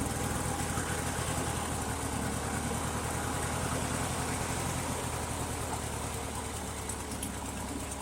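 Mastercraft riding lawn mower engine running steadily, just after starting.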